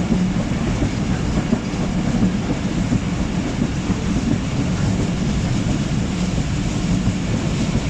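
Passenger train running on the track: a steady, loud rumble and rattle of the coaches and wheels on the rails.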